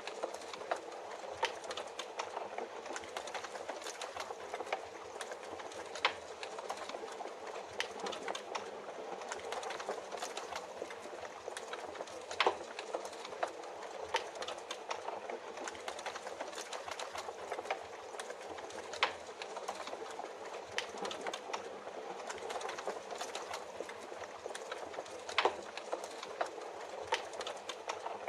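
Wood fire crackling, with many small snaps and four louder pops spread evenly through, over a steady hiss of rain.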